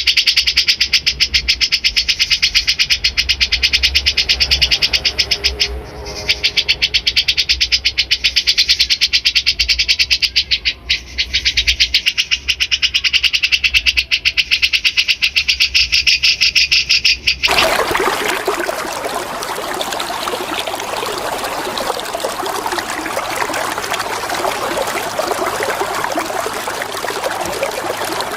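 Recorded bird song for bird training: a fast, rasping run of rapidly repeated high notes, broken briefly twice. About seventeen seconds in it cuts off suddenly and is replaced by the steady sound of flowing water.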